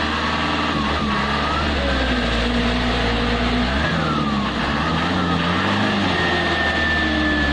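Truck engine running hard under load, its pitch rising and falling as the driver works the throttle, with a high whine in the last few seconds. The rear wheels are not getting the truck out.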